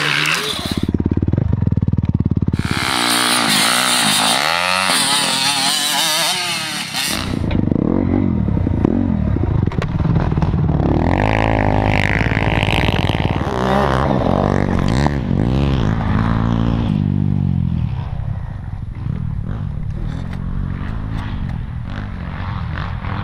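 Motocross bike engine revving hard, its pitch rising and falling again and again as the rider accelerates and backs off. It settles to a steadier, lower drone in the last few seconds.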